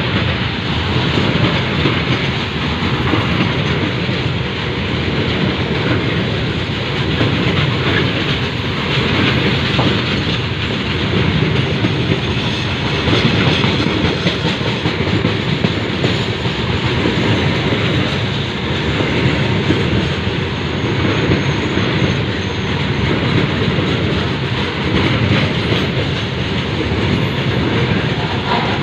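Long train of coaches rolling past, a steady rumble with the wheels clattering over the rail joints.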